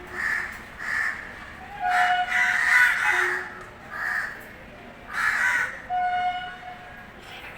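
Crows cawing repeatedly: short, harsh calls about a second apart, some running together in a cluster about two to three seconds in.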